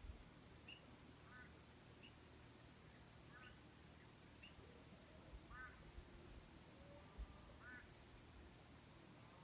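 Faint evening insect chorus, a steady high-pitched drone, with short quack-like animal calls repeating every second or so.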